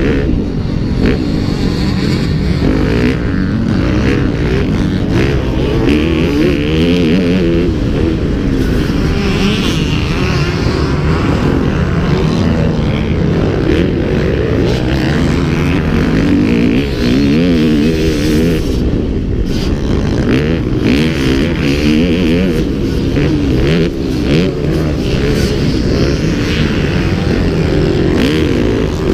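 Motocross bike engine running hard, its pitch rising and falling over and over as the rider opens and closes the throttle.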